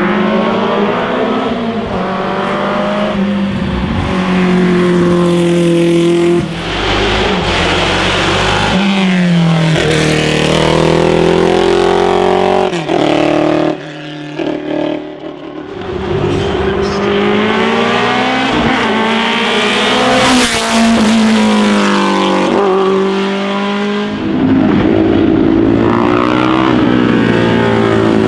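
Racing car engine accelerating hard up a hillclimb course, its pitch climbing and then dropping back at each gear change, over and over. About halfway the sound briefly falls away, then the engine climbs through the gears again.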